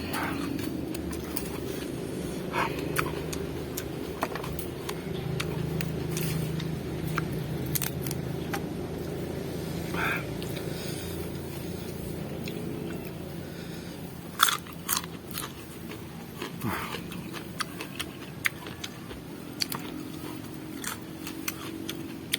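A person biting and chewing raw vegetables close to the microphone. Crisp crunches come now and then among the chewing, over a steady low background hum.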